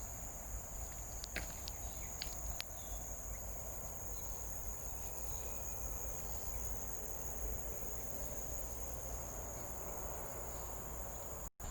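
Forest insects droning steadily in one unbroken high-pitched band, with a few faint ticks in the first few seconds. The sound drops out for an instant near the end.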